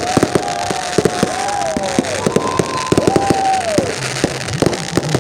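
Large wood bonfire burning, crackling with many sharp irregular pops, with a wavering whistle rising and falling at times.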